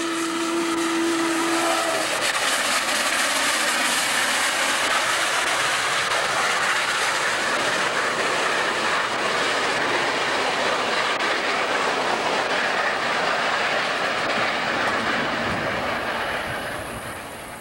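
A locomotive whistle sounds one steady note for about two seconds as a train approaches a grade crossing. A train then passes close by with a steady clatter of wheels over the rail joints, fading near the end.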